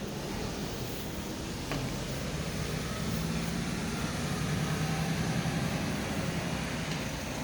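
Scania R tractor unit's diesel engine running, a steady low hum that strengthens a little about two seconds in, over wind and outdoor noise.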